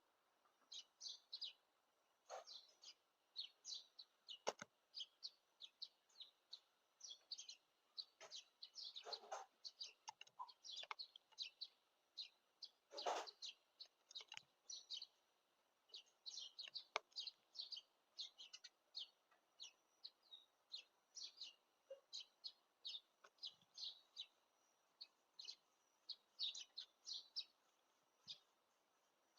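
Faint chirping of wild birds: many short, high calls in quick succession, with a few louder sharp calls among them.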